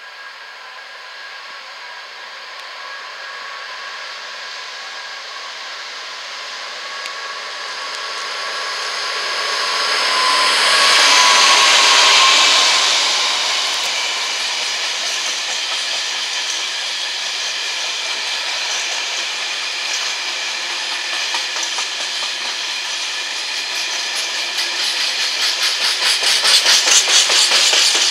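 Class 66 diesel locomotive 66779, with its two-stroke V12 engine, approaching and passing at the head of a train of engineers' wagons; the sound builds to its loudest about eleven seconds in as the locomotive goes by. Then the wagons roll past with a steady rumble, and a rhythmic clatter of wheels over the rail joints grows louder near the end.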